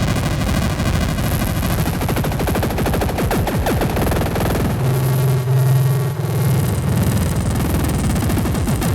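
Harsh, noisy synthesizer drone from a Novation Circuit groovebox playing the Howl preset pack: a dense, loud wash with a high whine and falling pitch sweeps. About halfway through, a strong low steady tone comes in for roughly two seconds.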